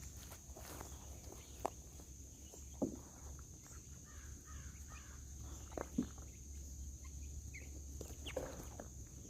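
Quiet farmyard ambience: a handful of scattered footsteps, with faint bird or fowl chirps in the middle and a steady high hiss underneath.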